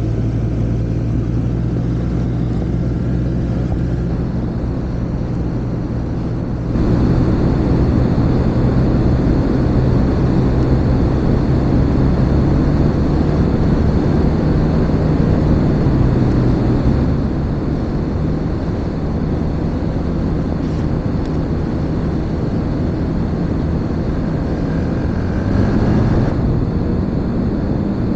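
Snowmobile engine running while under way. It gets louder as the throttle opens about seven seconds in, eases back in the middle, and rises briefly in pitch near the end.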